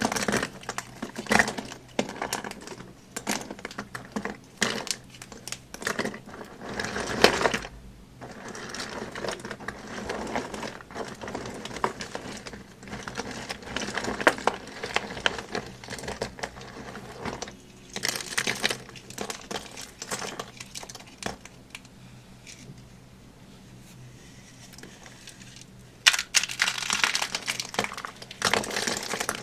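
Dry soap crunching and crackling under close-up handling, a dense run of crisp snaps and clicks. It thins to softer crackles about three-quarters through, then turns louder and denser near the end.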